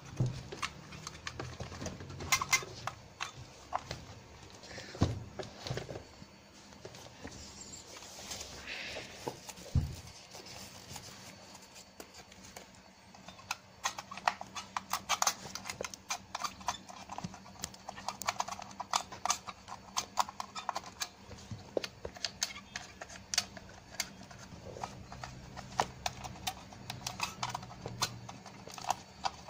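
Irregular light clicks, knocks and scratchy rubbing, busier in the second half, from hands working in a plastic battery compartment. The corroded battery contacts and springs are being wiped clean with alcohol.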